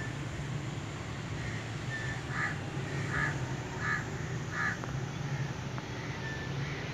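A bird calling four times in a row, the calls evenly spaced about three-quarters of a second apart, over a steady low hum. A few short, thin, high whistles come before and after the calls.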